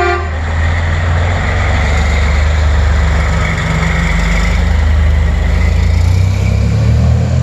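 Heavy rally truck's engine running loud and low, building gently and easing off near the end. A short horn toot right at the start.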